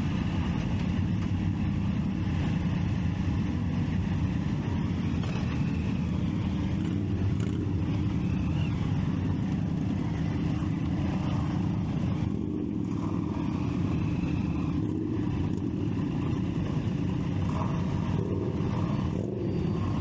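Triumph Street Triple 675's three-cylinder engine running steadily, heard from the rider's seat.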